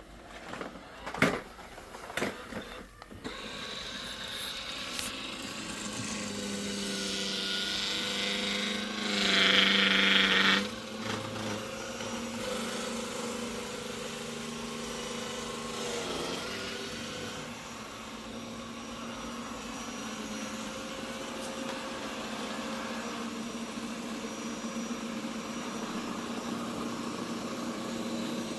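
Ecovacs Deebot X2 Omni robot vacuum running: a few clicks at the start, then a steady motor hum. The hum swells to a louder rushing burst about nine seconds in before settling back.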